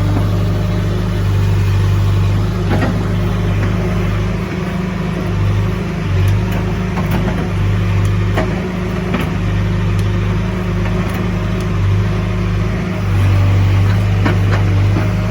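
Diesel engine of heavy earth-moving equipment running steadily under load, with a few sharp metallic knocks.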